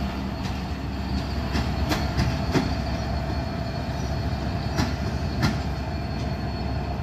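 Train running on the track: a steady low rumble of wheels on rails, with a few sharp clicks scattered through it.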